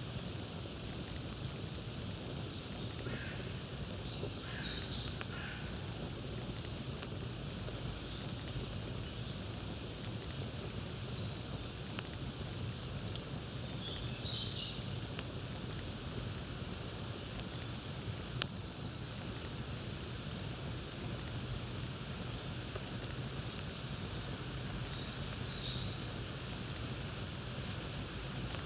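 Campfire crackling: a steady hiss of burning wood with scattered sharp pops, one louder pop about two-thirds of the way through. Small birds chirp briefly three times over it, near the start, in the middle and near the end.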